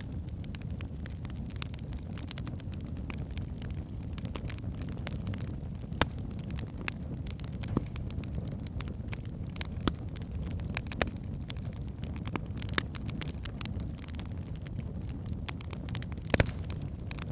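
Wood fire burning in a fireplace: a steady low rumble of the flames with scattered sharp crackles and pops from the burning logs, a few louder pops standing out.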